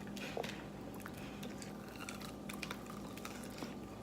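Person chewing and biting into a crispy fried chicken wing, giving scattered soft crunches and wet mouth clicks, over a steady low hum.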